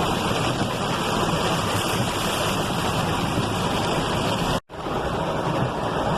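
Four-wheel-drive vehicle creeping over a road deep in hail and water, a steady rushing noise of tyres churning through hail and slush. The sound cuts out abruptly for an instant about four and a half seconds in.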